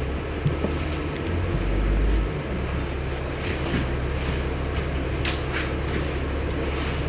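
Inside a LiAZ-6213.65 articulated city bus: the engine runs steadily with a low hum that swells briefly about two seconds in, with light clicks and rattles from the cabin.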